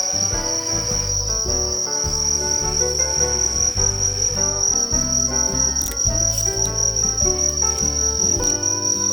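Crickets trilling steadily in one high, unbroken note, over background music of shifting notes and a bass line.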